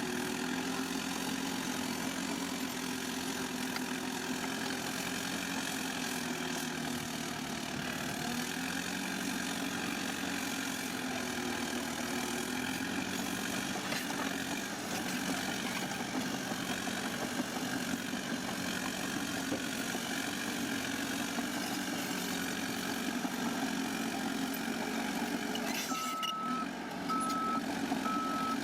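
Heavy diesel engine of a bulldozer running steadily, its pitch wavering a little as it works. Near the end a reversing alarm starts beeping at one steady pitch.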